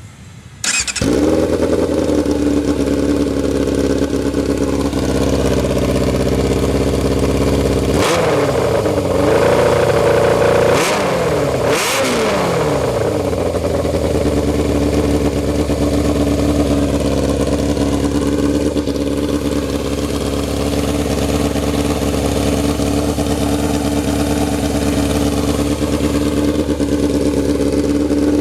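Yamaha YZF 600 inline-four sportbike engine, fitted with an aftermarket "GP"-style slip-on exhaust, catching about a second in and settling into a steady idle. The throttle is blipped twice, around a third of the way through and again a few seconds later, the revs rising and falling back to idle.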